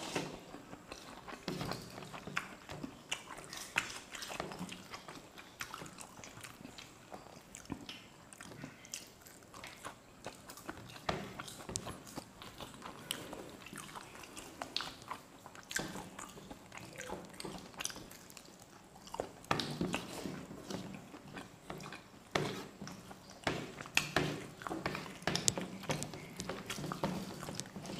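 Two people eating rice with their hands: close chewing and biting sounds with many small irregular clicks as fingers mix food on the plates.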